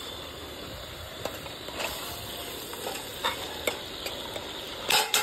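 Chicken pieces frying in hot oil in a pressure-cooker pot, a steady sizzle, with a few light clicks of the stirring spoon against the metal.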